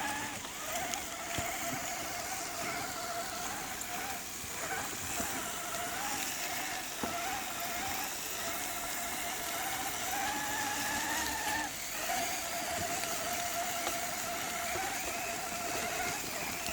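Axial RC rock crawler's electric motor and gearbox whining steadily as the truck crawls, the pitch wavering with throttle; it rises a little, cuts out briefly about twelve seconds in, then picks up again, over a steady hiss.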